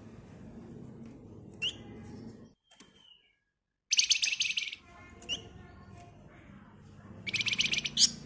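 A flamboyan songbird giving two rapid, high, buzzy trills, each under a second long, about four seconds in and near the end. Short rising chirps come between them, over a low steady hum.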